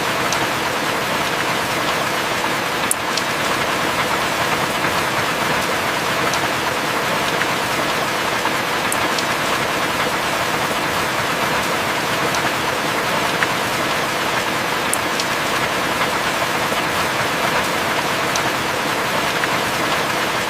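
Heavy rain falling steadily, with a few sharp drop ticks every few seconds.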